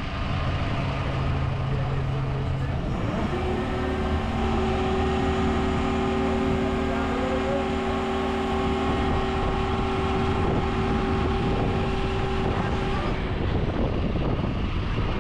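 Diesel engine running steadily. About three seconds in its revs rise to a higher steady pitch, hold there, then drop back near the end.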